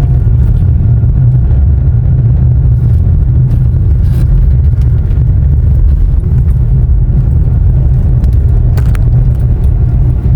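A car driving along a road: a steady low rumble of road and engine noise, with a few faint clicks and rattles.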